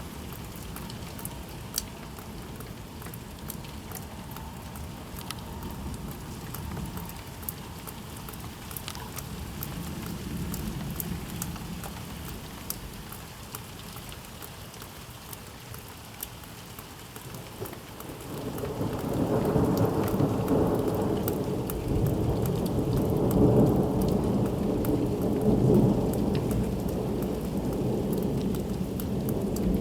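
Steady rain falling, with many sharp drop clicks, and a long roll of thunder that swells up about two-thirds of the way in and keeps rumbling; it is the loudest sound.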